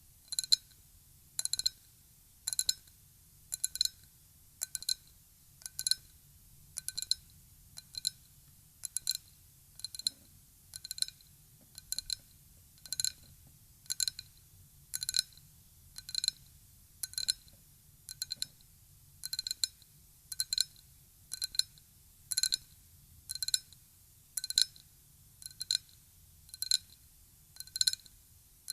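Ryukyu glass being tapped in a steady rhythm, a short cluster of taps about once a second, each ringing with the same clear, high glassy tones.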